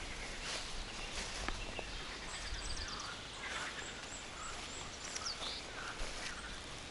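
Forest birds chirping and trilling in short high phrases, over the steady footsteps of someone walking on a forest path.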